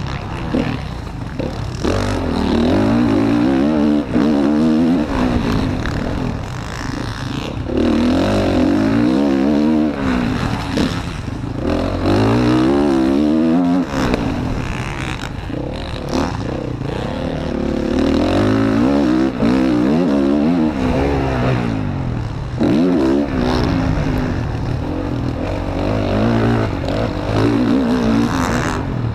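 Motocross bike's engine heard onboard during a race lap, revving hard and shifting, its pitch climbing and falling again and again, with wind rush and the clatter of the bike over rough ground.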